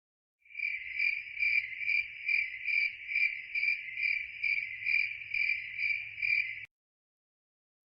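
An insect's continuous trill, a steady high tone pulsing a little more than twice a second. It starts about half a second in and stops abruptly near the end.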